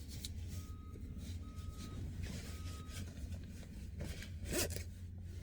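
Three short, even electronic beeps about a second apart over a low steady hum, then a brief rustling noise about four and a half seconds in.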